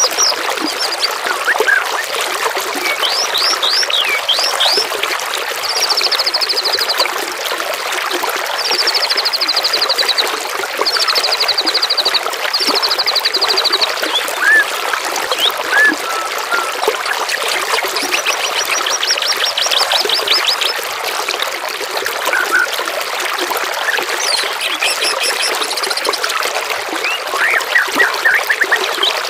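Steadily trickling, flowing water with songbirds calling over it: several rapid trills, each a second or two long, and scattered short whistled notes.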